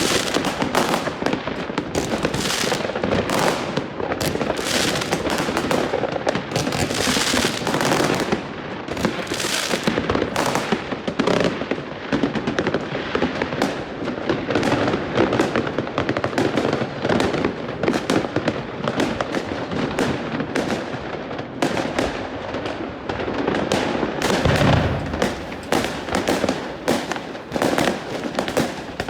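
New Year's fireworks and firecrackers going off in a residential street: a dense, continuous barrage of overlapping bangs, crackles and booms, with a heavier boom near the end.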